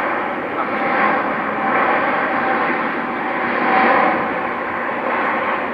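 Jet airliner's engines running loud and steady, a rushing noise with a faint whine in it.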